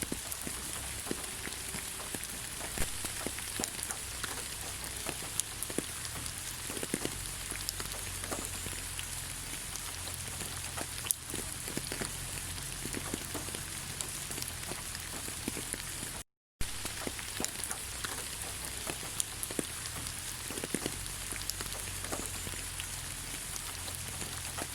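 Steady rain falling on leaves: an even hiss dotted with many separate drop taps. There is a split-second dropout to silence about two-thirds of the way through.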